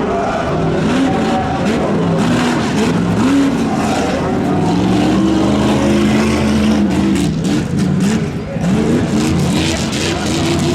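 Stock pickup truck engine revving hard, its pitch rising and falling again and again as the throttle is worked. A run of sharp knocks or bangs comes in the second half.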